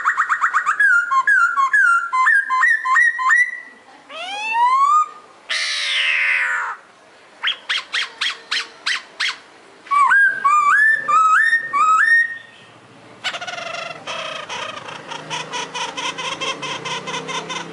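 Pokho songbird singing a loud, varied song: rising whistled phrases, a long upward glide, a harsh falling note, a quick series of short clipped notes, and near the end a fast, buzzy chatter.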